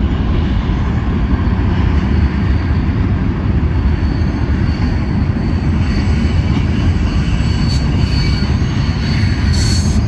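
Freight train rolling past close by, a steady heavy rumble of wheels on rail, with faint high-pitched wheel squeal coming in over the second half.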